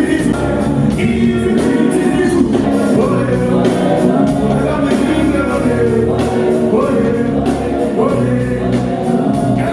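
Live band music with male singing voices.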